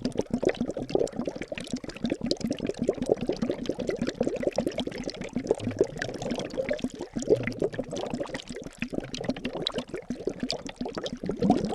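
Liquid bubbling and gurgling without pause, a dense stream of small bubbles that each pop with a short rising blip.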